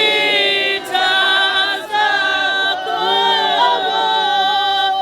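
A group of voices singing a prayer hymn in isiZulu, unaccompanied, on long held notes.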